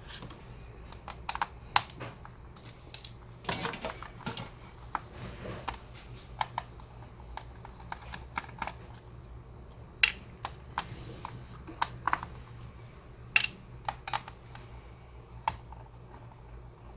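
Scattered sharp clicks and taps of hard plastic and small tools while an HP 15s laptop is being taken apart, with a short scrape about four seconds in, over a steady low hum.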